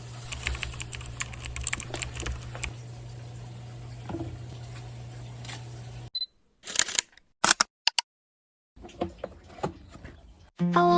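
Handling noises from unboxing: scattered clicks and taps over a steady low hum, broken by short dead-silent gaps after about six seconds. Music with a melody comes in right at the end.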